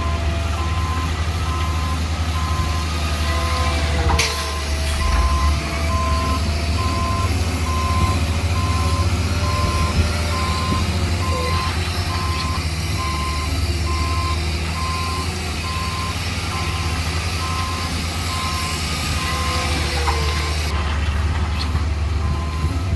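Reversing alarm of a heavy construction machine beeping at one steady pitch in an even series, over the low, steady running of its diesel engine. The beeping pauses briefly twice, about four seconds in and near the end.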